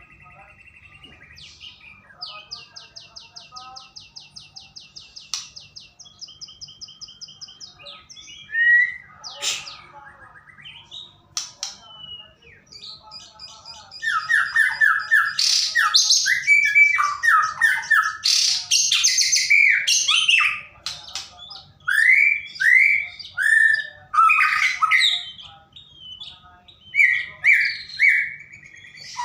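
White-rumped shama singing: a fast, even rattling trill a few seconds in, then from about halfway loud, varied whistled phrases full of quick downward slurs.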